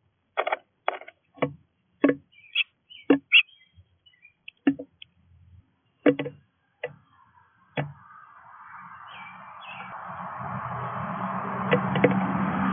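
Wild birds at a feeder giving a series of short calls, about a dozen in the first eight seconds. From about eight seconds in, a vehicle approaches: the engine hum and road noise grow steadily louder toward the end.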